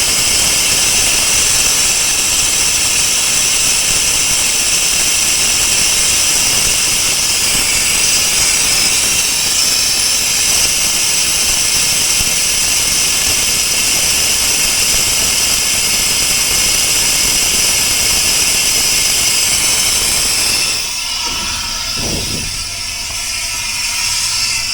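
Compressed air hissing loudly and steadily out of a blown air-suspension airbag on a step-deck trailer's rear axle. The hiss weakens about 21 seconds in.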